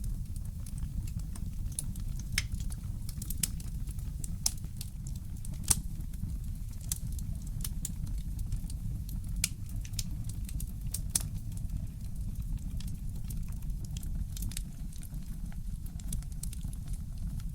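Fireplace crackling: irregular sharp pops and snaps from burning wood over a steady low rumble, with one louder pop about six seconds in.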